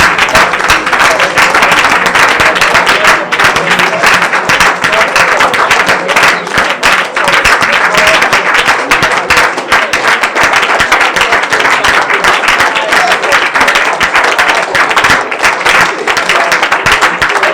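A congregation praying aloud all at once, many voices overlapping in a loud continuous roar, with rapid hand clapping throughout.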